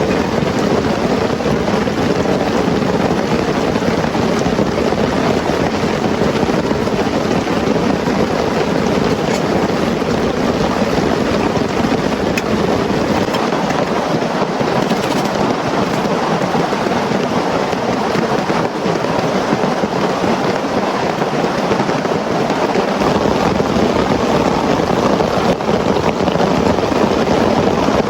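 Heavy rain pouring steadily, with a low rumble underneath that drops away for several seconds in the middle.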